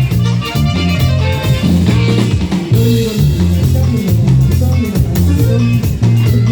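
Norteño cumbia band playing an instrumental passage, with a strong, rhythmic bass line under the other instruments.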